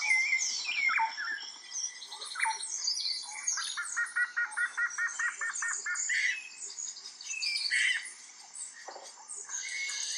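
Several wild birds singing at once, a dense mix of chirps and whistles. About a third of the way in, one bird gives a quick even run of about a dozen repeated notes.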